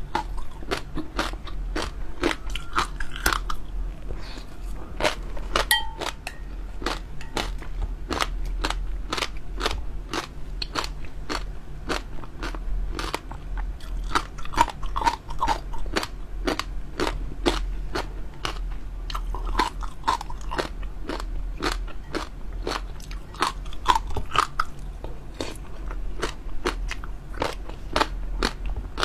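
Close-miked eating: a person chewing crunchy, chewy food, with a dense run of sharp crackling crunches several times a second.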